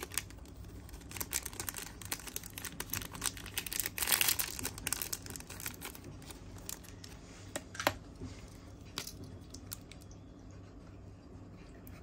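A Zippo lighter being handled: scattered sharp metal clicks and some rustling, busiest about four seconds in.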